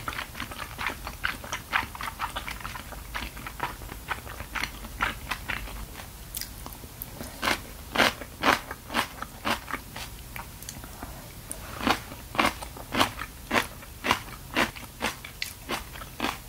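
Close-miked chewing of a mouthful of fish cake udon, a steady run of short wet clicks from the mouth, about two or three a second. The clicks grow louder from about six seconds in.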